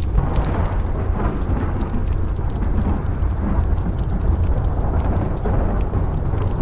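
Rain falling with distant thunder rumbling, the rumble swelling up at the start. Sharp pops and crackles of a wood stove fire are scattered through it.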